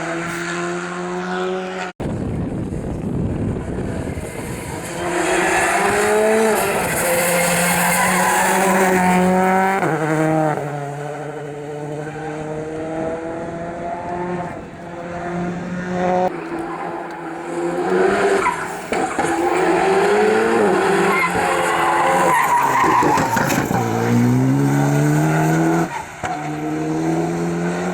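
Rally car engines under hard acceleration, pitch climbing and dropping back in steps as the drivers shift up through the gears, several times over. An abrupt cut about two seconds in.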